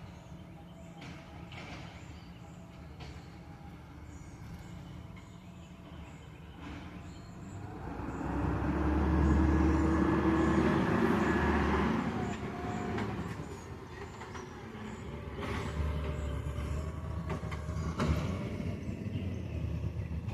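A large vehicle's engine grows loud about eight seconds in, holds for a few seconds and fades, then rises again from about fifteen seconds on, over a low steady street rumble.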